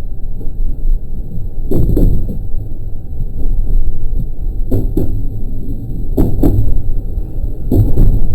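223 series electric train running along the track: a steady low rumble of wheels on rail, broken by clacks as the wheels pass over rail joints, some in quick pairs, about four times.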